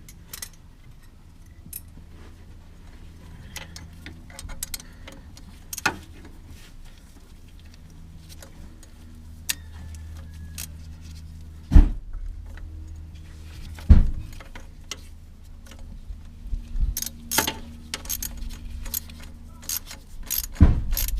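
Metal hand tools and parts clinking and knocking during work under a van, with two loud knocks about twelve and fourteen seconds in and a quicker run of clicks near the end, over a steady low hum.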